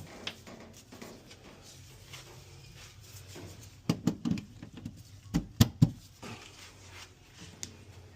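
Several sharp knocks and clunks in two short clusters, about four and five and a half seconds in, over a faint steady low hum.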